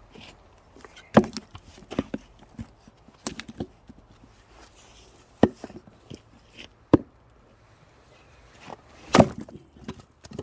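Axe chopping firewood: about six sharp strikes on the wood, one to two seconds apart, with smaller knocks and cracks of wood between them; the loudest strike comes near the end.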